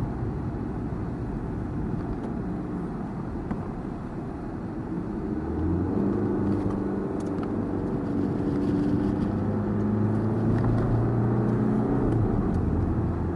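Engine running: a low rumble that settles into a steady, louder hum about halfway through.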